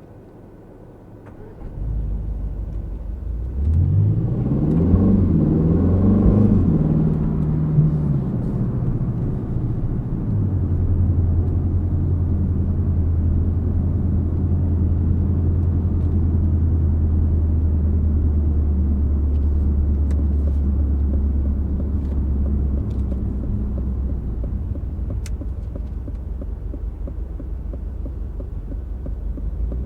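2025 Aston Martin Vantage's twin-turbo 4.0-litre V8 on the move. It pulls up through the revs in rising sweeps about four to seven seconds in, then eases off and settles into a steady low drone at constant revs.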